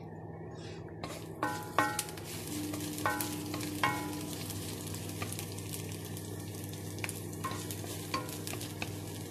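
Sliced spring onions sizzling in a frying pan while being stirred with a wooden spatula. A few ringing knocks of the utensil against the pan come in the first four seconds.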